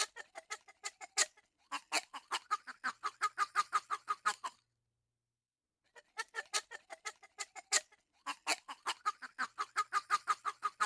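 Duck quacking in two long runs of rapid quacks, about five a second, with a pause of a second or so in the middle.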